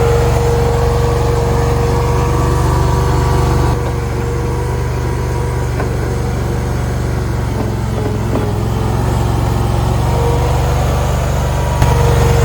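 Small engine running at a steady speed, its level dropping slightly about four seconds in.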